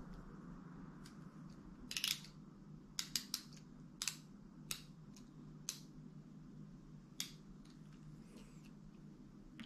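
Scattered sharp clicks and taps from handling the small plastic parts of an insulin injection while the dose is readied: about eight or nine separate clicks at uneven intervals, with a faint steady hum beneath.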